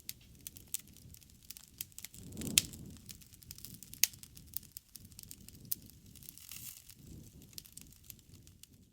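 Wood campfire crackling, with frequent sharp pops over a low rumble of flame; one loud pop about two and a half seconds in.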